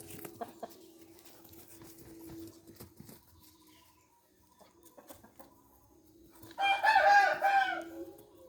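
A rooster crowing once, a single call of about a second and a half in several rising-and-falling segments, near the end; before it, only faint clicks and a low steady hum.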